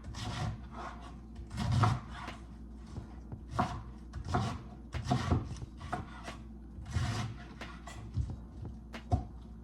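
Knife cutting on a cutting board: irregular knocks and scraping strokes.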